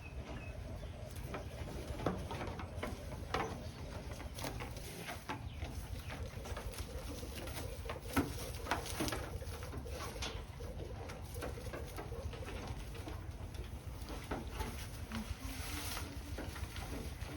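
Pigeons cooing in low, wavering calls, with scattered sharp clicks and knocks over a steady low hum.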